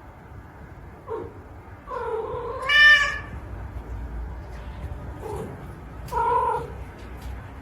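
A cat meowing four times, the longest and loudest call about three seconds in, climbing to a high pitch at its end.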